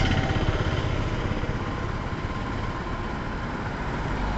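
Express train pulling slowly out of the station behind an electric locomotive: a steady low rumble with a faint hum, growing a little near the end as the train comes closer.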